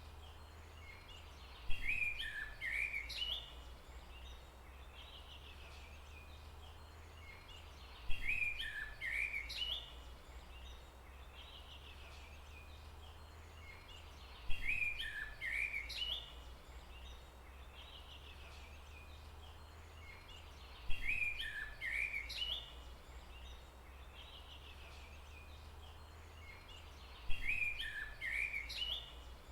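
A forest bird's short chirping phrase, about a second and a half long, repeats five times, once every six seconds or so, the same each time as in a loop. Under it runs a steady low hum with faint background hiss.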